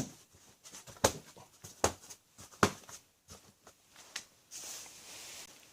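Sharp plastic clicks and knocks, about one a second, as the plastic engine cover of a VW TDI diesel is pressed back into place, with a brief soft rustle near the end.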